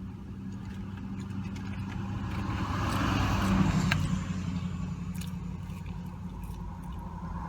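A car driving past, rising to its loudest about three to four seconds in and then fading, over a steady low hum. A few faint clicks are heard.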